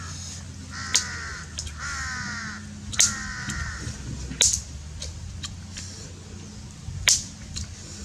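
A bird calling several times in quick succession, each harsh call dropping in pitch, mixed with four sharp snaps or knocks that are louder than the calls.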